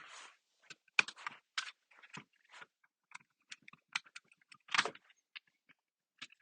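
Plastic parts being handled and unclipped as a HomeLink module is worked out of its plastic map-console housing. Many small clicks and taps are spread through, with a short scrape at the start and a longer rasp a little before five seconds in.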